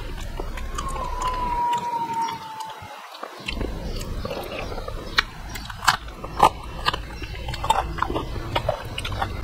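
Man eating rice and soft mixed vegetable curry by hand with his mouth open, chewing with wet mouth smacks. The smacks become frequent and sharp from about four seconds in, when he takes a big handful.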